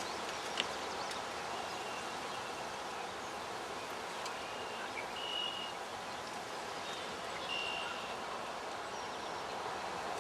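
Steady outdoor background hiss with a wild bird's short, flat whistled notes repeating every couple of seconds, and a single small click about half a second in.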